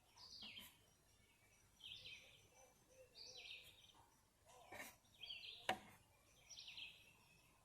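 Faint background: a small bird chirping over and over, one short call about every one and a half seconds, with two short clicks past the middle.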